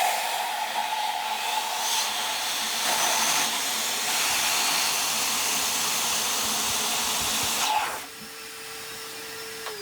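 Vacuum cleaner running steadily while it draws on the cylinder head ports to test the lapped valves for leaks. About eight seconds in it drops off sharply, leaving a quieter steady whine.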